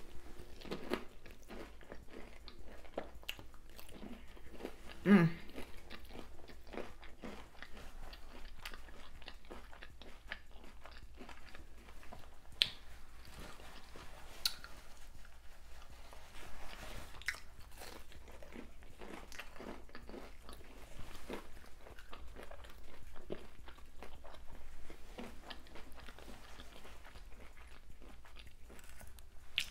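A person biting and chewing a fried, hot Cheetos-crusted lobster tail: crisp crunches of the fried coating and moist chewing, repeated steadily, with one louder moment about five seconds in.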